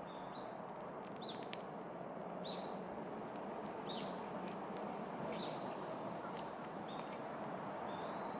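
Wood fire crackling with scattered sharp pops over a steady hiss, while a bird repeats a short high chirp about every second and a half.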